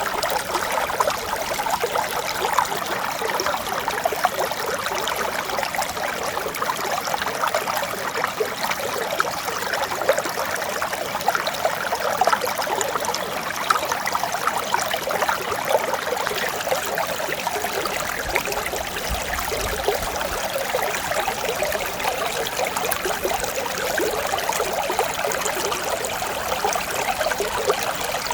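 Mountain stream running over rocks: a steady, even rush of water with many small splashes and trickles through it.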